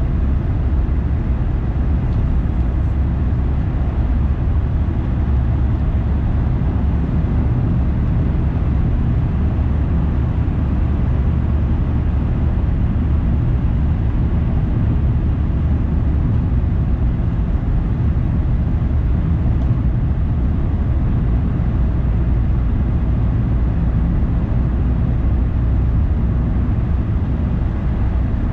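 A car driving, with its engine and tyre noise making a steady low rumble.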